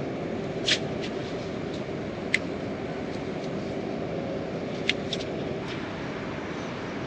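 Heavy rain falling steadily, a constant hiss, with a few sharp taps of single drops scattered through it.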